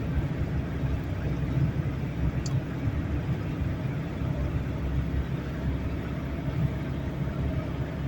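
Steady low rumble of a car's engine and road noise heard from inside the cabin, with one faint brief tick about two and a half seconds in.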